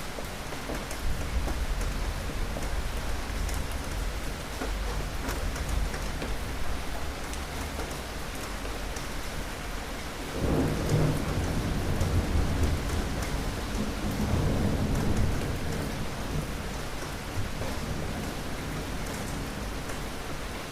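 Steady rain falling, with rolling thunder: a low rumble early on and a louder roll that starts abruptly about halfway through and rumbles for several seconds before fading.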